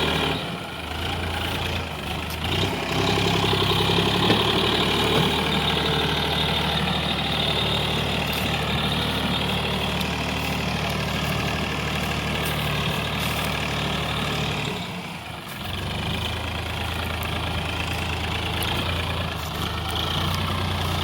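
Massey Ferguson 7250 DI tractor's diesel engine running steadily while pulling a heavy load of about 80 quintals. The engine note dips briefly about fifteen seconds in, then comes back.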